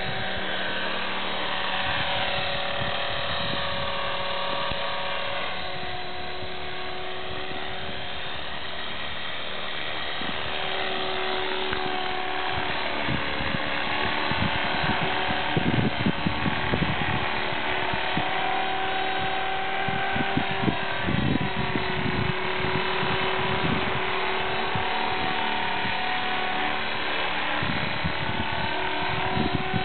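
Electric RC collective-pitch helicopter (E-sky Belt CP) in hover: the motor and rotor whine rises and falls in pitch as the throttle and pitch are worked. Low gusty rumbles on the microphone come and go, strongest around the middle and near the end.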